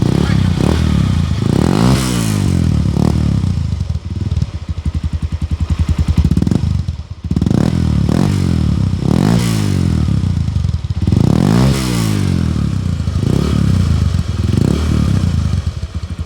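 Honda Verza 150's single-cylinder engine breathing through its stock exhaust with the muffler drilled out, revved several times from idle, the engine speed climbing and falling back each time.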